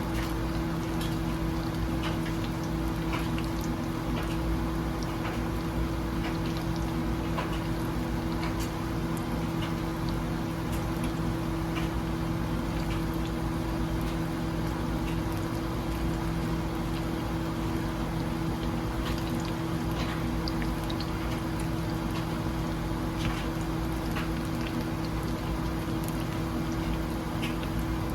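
Food sizzling while cooking: a steady hiss with scattered small pops and crackles, over a steady low hum.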